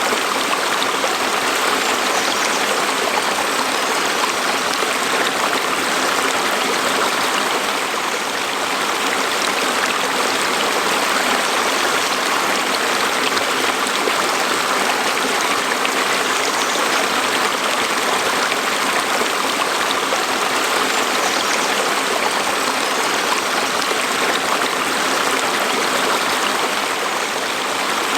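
Small stream flowing over rocks: a steady, even rush of water.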